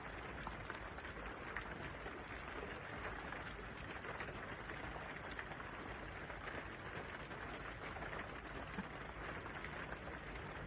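Steady rain falling: an even hiss of patter, with a few faint drop ticks standing out.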